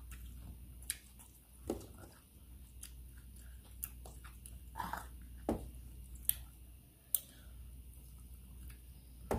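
People chewing and eating spicy instant noodles close to the microphone, with scattered short clicks and mouth smacks.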